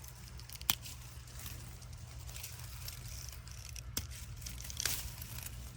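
Sugar snap pea pods being picked off the vine: two sharp snaps, about a second in and again about four seconds in, and a short rustle of the vines just after the second.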